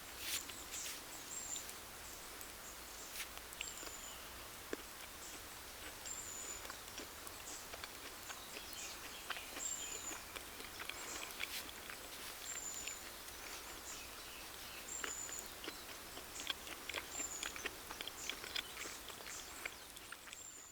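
A bird repeating a short, high, falling call about every two to three seconds over a steady outdoor hiss, with scattered sharp crackles and pops typical of a wood campfire.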